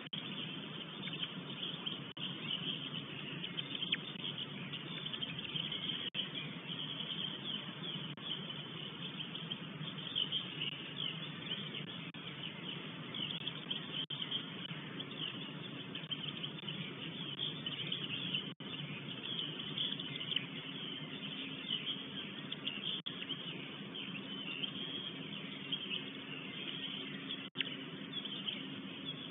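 Dense chorus of forest songbirds chirping and singing without pause, with a low steady hum underneath.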